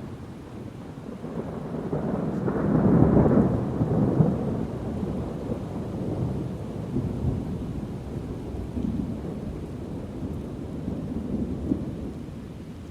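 Rolling thunder over steady rain: a deep rumble builds about two seconds in, is loudest around three to four seconds, then keeps rolling and slowly fades.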